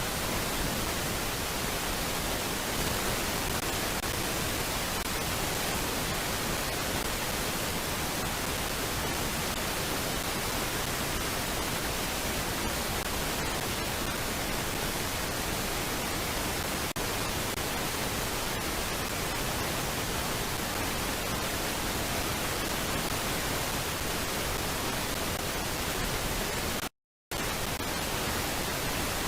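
Steady even hiss of static on a nest camera's audio feed, with no bird calls; the sound drops out completely for a moment near the end, then the hiss returns.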